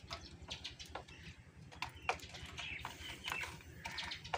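Birds chirping with scattered short calls, and a sharp click about two seconds in.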